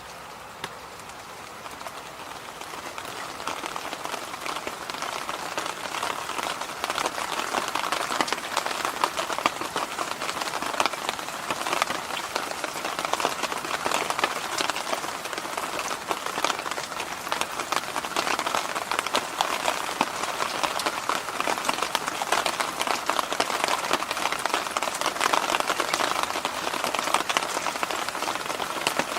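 Electric fan running: a steady rush of air with a dense, fine crackle, growing louder over the first several seconds, then holding level.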